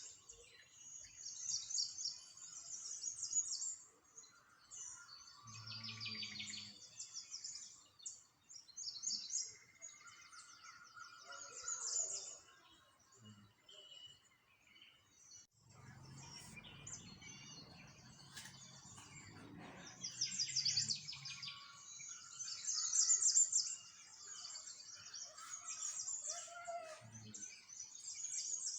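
Many small birds chirping and twittering in high, overlapping trills that come and go in bursts, with a faint low rumble in the background about midway through.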